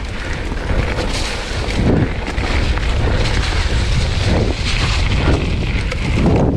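Mountain bike rolling down a rough, wet trail, with wind buffeting the action camera's microphone as a steady low rumble.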